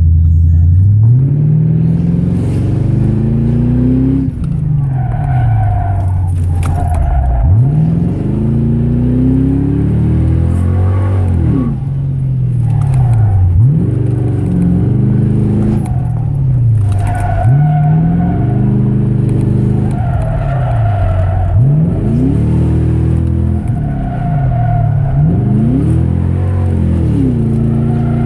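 Ford Crown Victoria Police Interceptor's 4.6-litre V8 running with an open exhaust, loud, its pitch climbing and dropping again and again as it accelerates and lifts between corners. Tyres squeal in patches between the revs.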